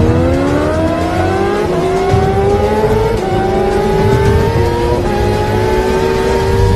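Superbike engine accelerating hard through the gears, its pitch climbing and then dipping at each upshift, about three times.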